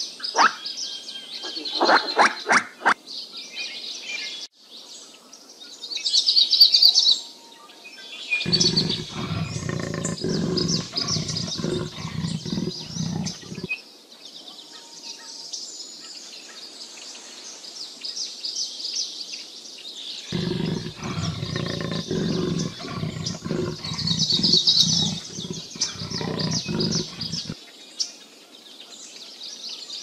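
Small birds chirping and twittering throughout, with a quick chattering call in the first few seconds. Twice, about eight seconds in and again about twenty seconds in, a low, rough, pulsing animal call runs for several seconds.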